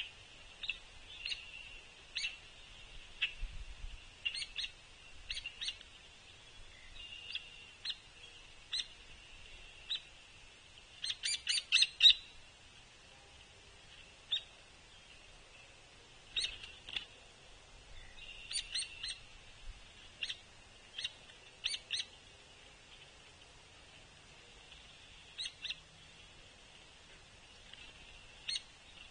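Hairy Woodpeckers giving short, sharp peek calls, one or two at a time, with a quick run of louder calls about eleven seconds in: the calls of a juvenile begging its parent for suet. A faint steady high buzz runs behind them.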